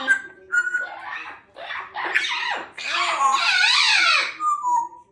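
Congo African grey parrot vocalizing: short whistled notes and choppy chatter, then a longer, louder laugh-like call about three seconds in.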